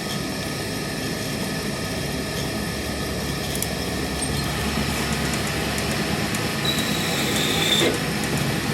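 A machine running steadily, with a thin high whine starting a little before seven seconds in and lasting about a second.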